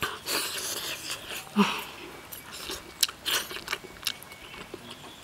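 Close-up eating sounds: a mouthful of soft steamed yam with minced pork and egg being chewed and smacked, with a few sharp clicks, the loudest about a second and a half in.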